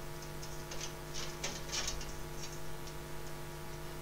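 Faint, irregular light clicks and short scrapes over a steady electrical hum.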